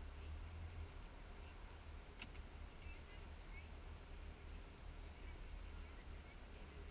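Faint low rumble of a car engine idling, heard from inside the cabin, with a single click about two seconds in.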